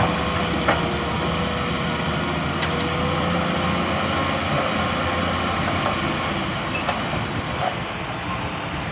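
Heavy diesel earthmoving machinery running steadily, with a constant whine above the engine and a few faint clicks.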